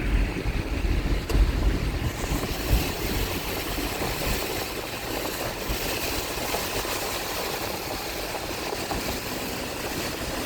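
Car driving on a wet road in the rain: steady road and tyre hiss over a low rumble, a little louder in the first three seconds.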